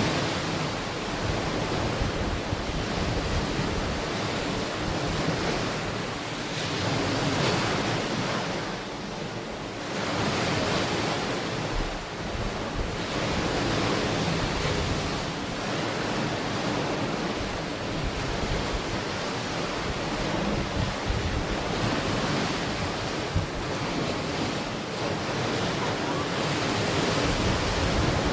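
Ocean waves washing onto a shore, the surf swelling and falling back every few seconds, with some wind buffeting the microphone.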